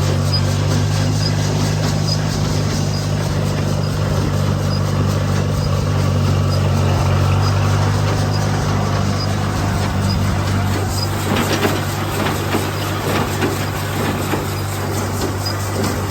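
1957 Case 400 tractor engine running steadily while driving a PTO-powered Case 130 baler baling straw, with a faint high tick about twice a second. About eleven seconds in, a clatter of clicks and knocks joins the engine.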